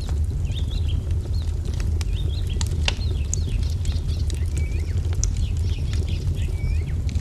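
Wood fire crackling, with scattered sharp pops over a steady low rumble, mixed with small birds chirping in quick, curving notes.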